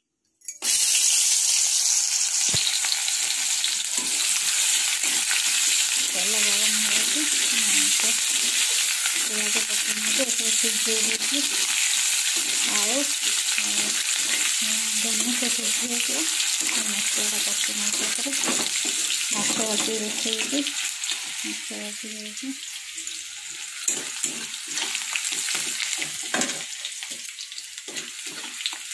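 Food frying in hot oil in a black kadhai, sizzling steadily while it is stirred with a spatula. The sizzle starts abruptly just after the beginning and eases a little in the last third. Spatula scrapes and taps on the pan come through near the end.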